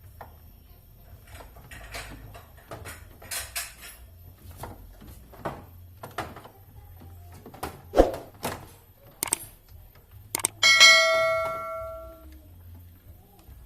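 A series of sharp clicks and knocks from parts being handled. About ten and a half seconds in, a metal object is struck and rings with several clear tones for over a second before fading.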